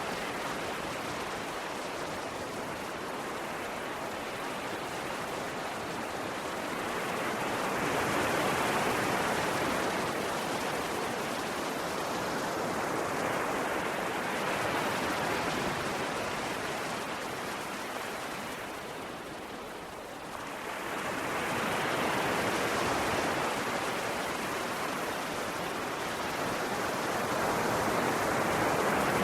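Ocean waves breaking and washing on the shore in a steady rushing surf. The surf swells and ebbs slowly, and after a lull it rises again about twenty seconds in.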